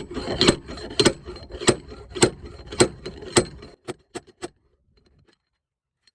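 Dent puller working on a car's sheet-metal bodywork: six sharp knocks about every half second, then three lighter, quicker ones, stopping about four and a half seconds in, as the dent is pulled out.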